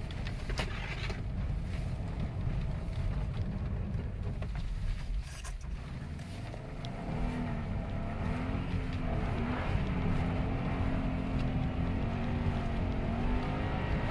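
Subaru Impreza STI's turbocharged flat-four heard from inside the cabin, with tyre and road rumble on snow. For the first few seconds the engine is low under the rumble; from about seven seconds its note comes up clearly, rising and falling with the throttle.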